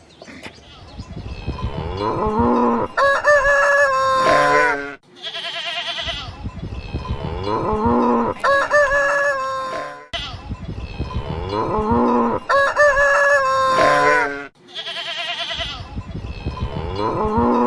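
Rooster crowing amid other farmyard fowl calls. The same few-second stretch repeats about every five seconds, like a looped recording.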